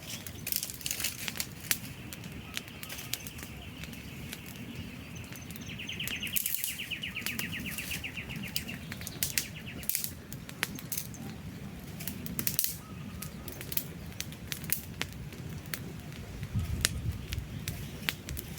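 Wood campfire burning, with frequent sharp crackles and pops of the logs over a steady low rumble of the flames. For several seconds in the first half a high, fast trill sounds in the background.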